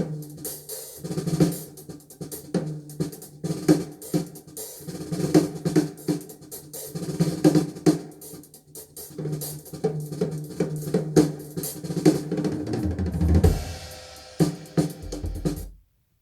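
Drum-driven music with snare, bass drum, hi-hat and cymbals played back through B&W N802 loudspeakers, recorded on a phone. The track stops abruptly just before the end.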